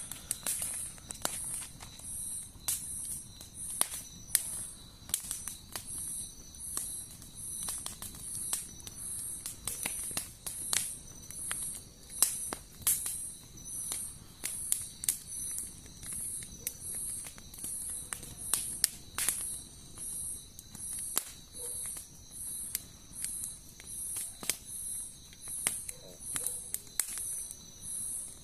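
Campfire crackling with irregular sharp pops, over insects chirping: a very high chirp repeating about every three-quarters of a second with a steady high trill beneath it.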